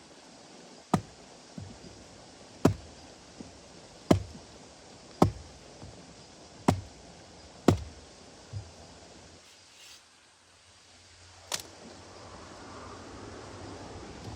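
Repeated chopping strikes of a blade into wood, one about every second and a half, some followed by a lighter second hit. After a pause, one more strike comes near the end.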